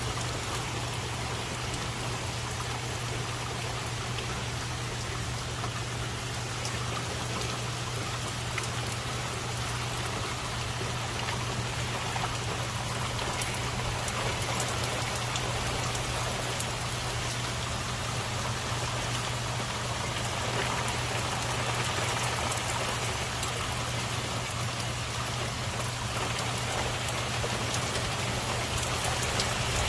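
Steady rain falling, with individual drops ticking close by. A steady low hum sits underneath.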